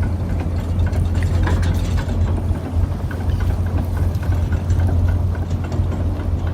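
A fishing boat's engine running steadily with a deep, even hum, and faint clatter and water noise over it.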